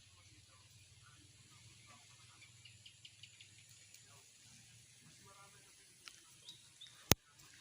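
Quiet outdoor background with a low steady hum and scattered faint ticks, broken about seven seconds in by one sharp, loud click.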